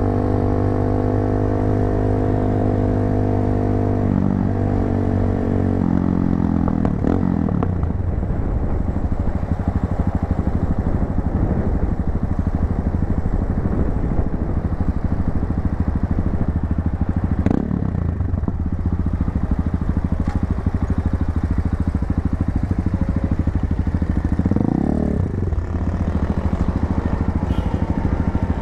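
Tekken 250 motorcycle engine through an aftermarket muffler, running under way. It holds a steady note for the first several seconds, then runs rougher and noisier, with a brief rev about three-quarters of the way through.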